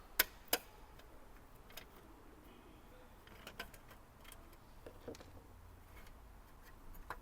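Light metallic clicks and ticks of a screwdriver working the screws out of a car stereo head unit's heat sink and metal casing: two sharp clicks in the first second, then a few scattered fainter ticks.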